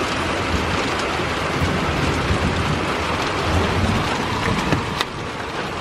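Heavy wind-driven rain pouring down in a steady rush, with a low rumble beneath it. It eases a little near the end.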